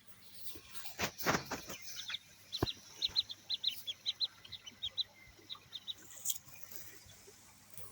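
Ducklings peeping: a quick run of many short, high peeps. A brief scuffling burst comes about a second in.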